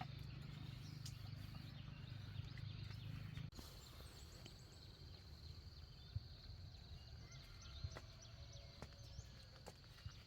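Faint outdoor ambience: a steady high-pitched drone with scattered light taps and clicks, and a low hum that cuts off suddenly about three and a half seconds in. Faint bird-like chirps follow.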